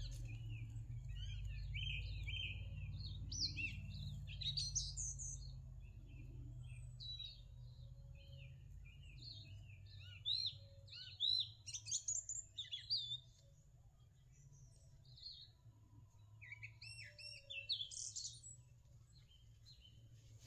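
Small songbirds chirping and singing in quick runs of high, up-and-down notes, coming in three spells, over a low rumble that fades after the first several seconds.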